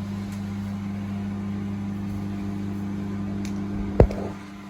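IFB 30BC5 microwave oven running in microwave mode, a steady low hum. A single sharp click comes about four seconds in, after which the hum drops lower.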